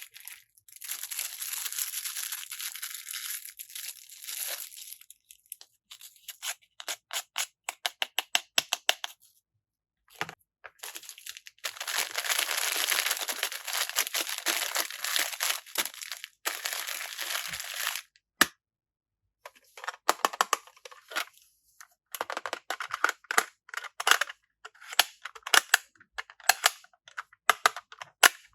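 Packaging being torn open and crinkled by hand in two long stretches, with runs of quick clicking taps between them as the contents are handled.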